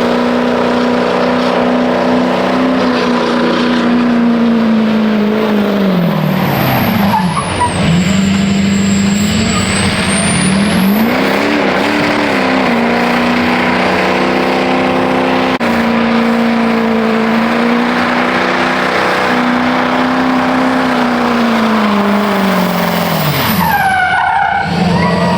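Truck doing a burnout: the engine is held at high revs over the loud hiss of spinning tyres. The revs drop and climb back a quarter of the way in, and again near the end.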